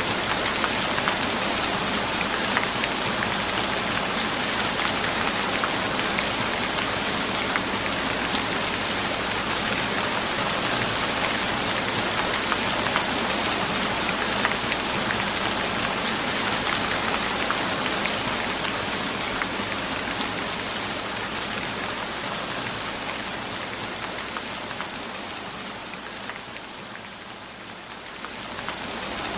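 Steady rain falling, a dense patter of drops hitting a surface. The rain gradually fades lower over the last third and swells back up near the end.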